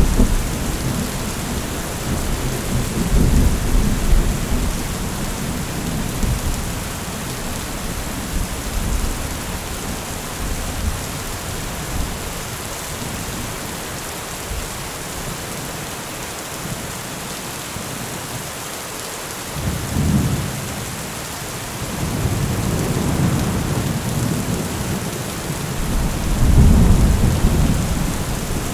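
Heavy rain falling steadily with rolling thunder. Low rumbles come and go in the first few seconds and ease off in the middle, a short rumble rises about two-thirds through, and a longer one builds near the end.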